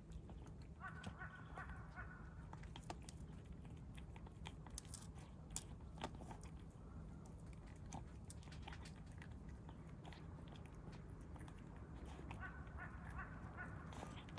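Stray kittens eating, with faint scattered crunching and clicking bites. A crow caws faintly in the distance near the start and again near the end.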